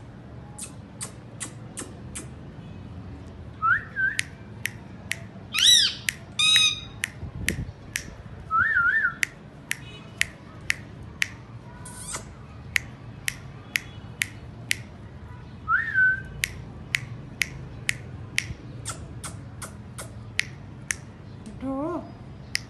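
Indian ringneck parrots chirping and squawking: a steady run of short, sharp, high chirps, roughly one or two a second, broken by a few short whistled calls and one loud, harsh screech about six seconds in.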